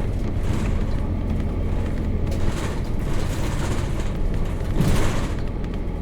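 Nissan Diesel FE6 straight-six diesel of a 1998 KC-RM211GSN route bus running under way, heard from inside the cabin, with a steady low engine drone under road noise. Swells of hiss come and go, the loudest about five seconds in.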